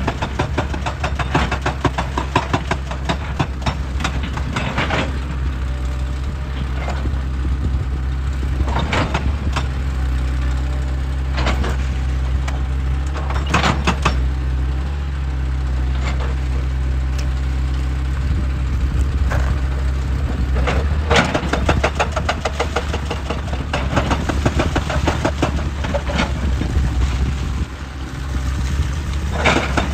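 Excavator's diesel engine running steadily, with sharp cracks and knocks of rock breaking every few seconds. A fast rattling hammering comes in near the start and again near the end.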